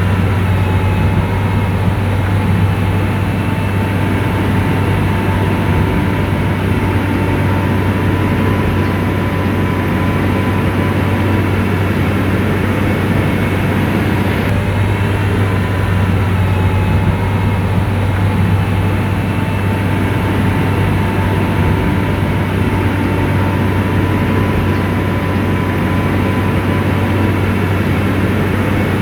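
SDLG motor grader's diesel engine running steadily under work, with a deep low hum and a faint whine above it.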